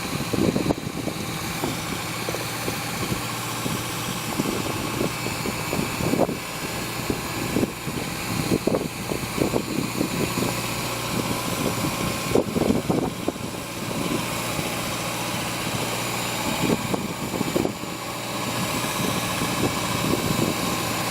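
An engine idling steadily, with scattered short knocks and clatters over it.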